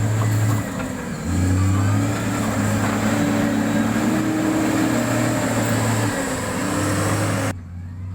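Diesel engine of heavy road-construction equipment running loudly under load. Its note steps lower about a second in and shifts again near the end.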